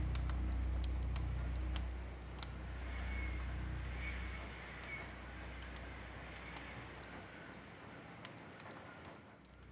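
Fire crackling in a fireplace: irregular small pops over a soft hiss. A low music drone fades out after about two seconds.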